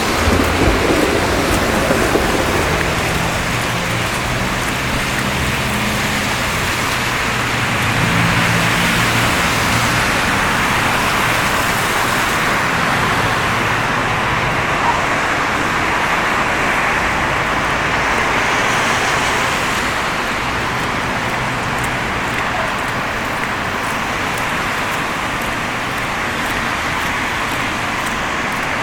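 Street traffic on a snowy city road: a steady hiss of tyres on wet, slushy pavement, with the low hum of passing engines through the first two-thirds.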